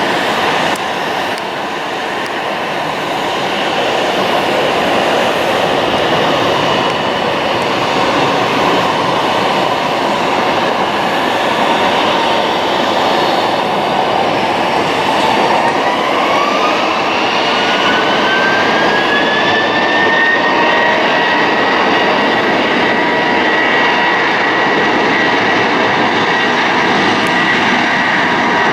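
Jet airliner engines running loud and steady, with a whine that rises in pitch about halfway through and then holds steady as the engines spool up.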